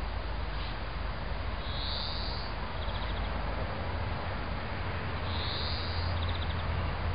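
A small songbird singing twice, each phrase a high note followed by a quick trill, over a steady hiss and low rumble.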